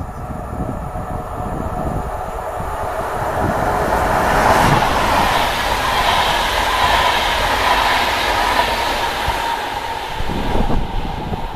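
Finnish InterCity2 passenger train running by on the rails, its wheel rumble and clatter building to its loudest about four to five seconds in and staying loud as the coaches pass, with a few wheel clacks near the end.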